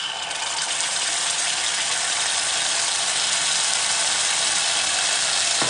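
Schezwan chutney dropped into hot oil and fried garlic in a kadai, frying with a loud, steady sizzle that starts suddenly.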